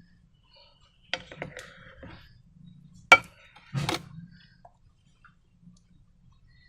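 A few sharp clicks and knocks of hard objects being handled. There is a cluster about a second in, then the loudest click about three seconds in and another strike less than a second after it.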